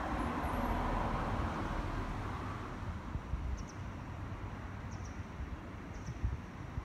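Cabin noise of a Tokaido Shinkansen train moving slowly: a steady low rumble and hiss that grows a little quieter from about two seconds in, with a few faint, high ticks.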